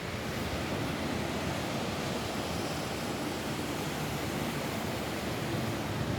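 Steady rain falling on a roof, an even unbroken hiss.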